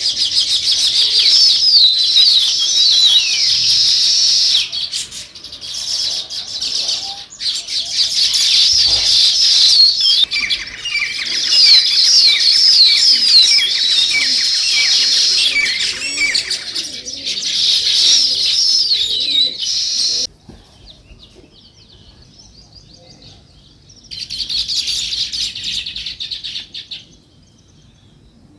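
A flock of sparrows chirping in a dense, overlapping chorus of short high chirps. It stops suddenly about two-thirds of the way in, and a shorter burst of chirping follows near the end.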